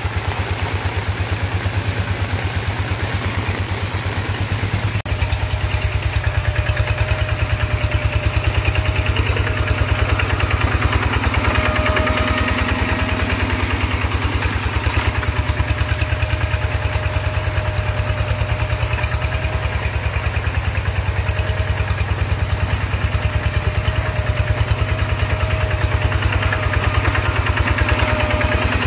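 Single-cylinder diesel engine of a two-wheel hand tractor running steadily in a rice paddy, with an even rapid chugging; it gets a little louder about five seconds in.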